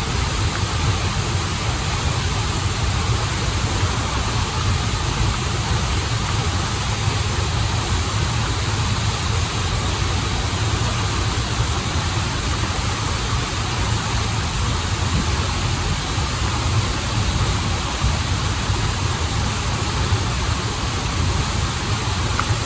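Waterfall and stream water running steadily: an even rushing hiss over a deep low rumble, with no breaks.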